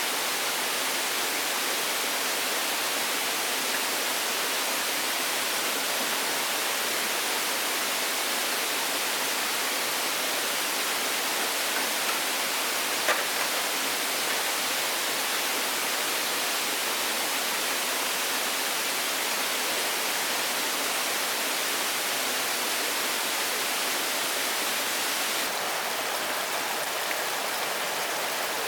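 Steady rushing noise of water, with a single sharp click about halfway through.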